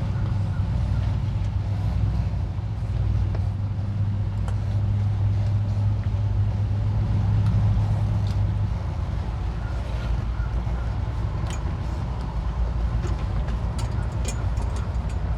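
Towboat's outboard engines running at low speed while maneuvering, a steady low drone that eases slightly about halfway through.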